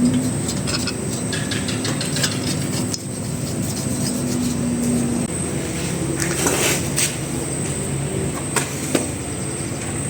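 Small engine of an old Yamaha generator running at a steady speed, with a few light metallic clicks and taps over it.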